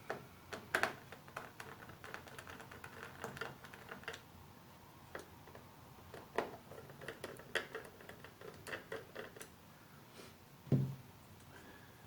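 Irregular light clicks and taps of small parts and tools being handled during a repair, with one heavier knock near the end.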